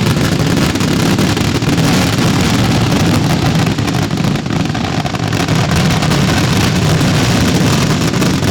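Fireworks barrage: rapid shots and bursts so dense that they merge into one continuous loud rumble with crackle.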